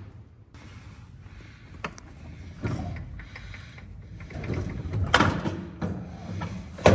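Scattered clunks and knocks of a heavy car part being handled in a shop, with a sharp bang near the end.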